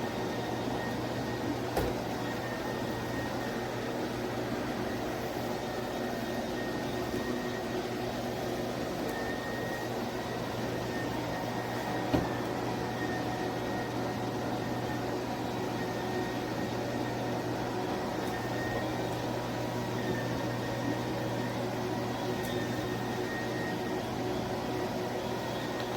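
Cordless dual-motor electric spin mop running, a steady motor hum with a faint high whine, and two light knocks about two seconds and twelve seconds in.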